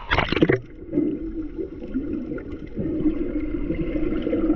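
Muffled underwater sound while snorkeling: a short splash in the first half second, then a steady wavering hum under the water.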